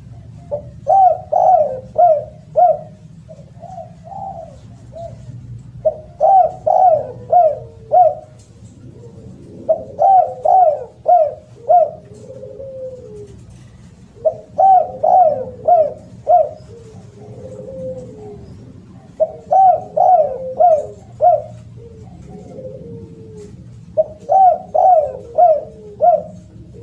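Spotted dove (derkuku) cooing loudly in repeated phrases of four or five quick coos, one phrase every four to five seconds, with softer, lower coos in between. A steady low hum runs underneath.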